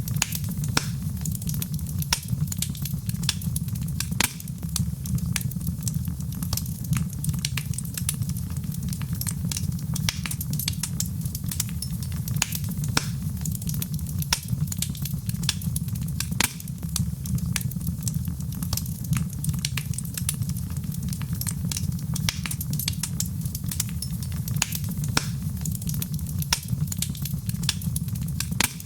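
Fire in a fireplace crackling: frequent, irregular sharp pops and snaps over a steady low rumble of the flames.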